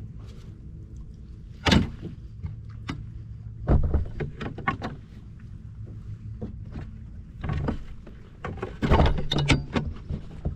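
Irregular knocks and clunks of gear against a kayak's hull, loudest in two clusters about four seconds in and near the end, over a low steady hum.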